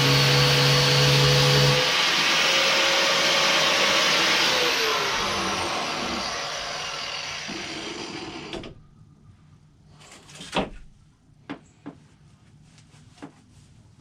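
Electric power tool running at speed, then switched off about two seconds in and winding down with a falling pitch over several seconds. A few light knocks and clicks follow as it is handled and set down.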